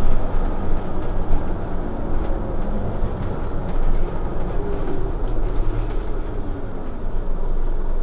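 Scania OmniCity single-deck bus heard from inside the cabin: a steady engine rumble and road noise as it drives.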